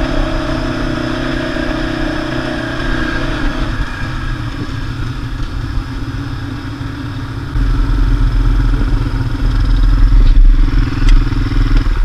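Quad bike (ATV) engine running at a steady speed while riding. A deeper rumble comes in and gets louder about two-thirds of the way through.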